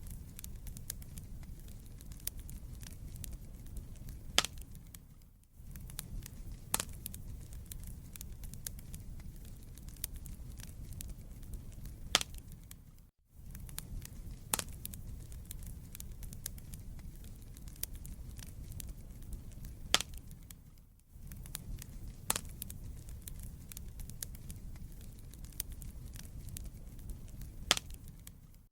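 Wood fire in a fireplace crackling over a steady low rumble, with scattered small crackles and a handful of sharp louder pops. About every eight seconds the sound dips away for a moment and comes back.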